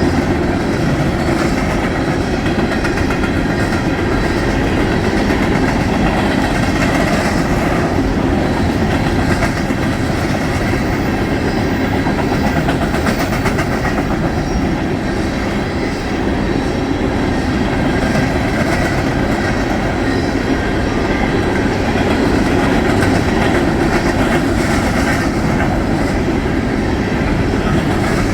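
Norfolk Southern empty coal train rolling past: a steady, loud rumble of freight-car wheels on the rails.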